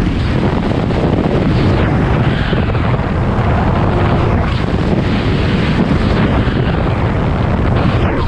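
BMW M3 E92 drift car's engine and exhaust running as the car drives down the track, heard from a camera mounted on the outside of the car, with heavy wind buffeting on the microphone.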